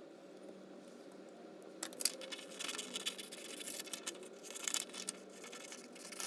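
Scissors snipping through a sheet of paper: runs of short, crisp cuts starting about two seconds in, over a faint steady background hum.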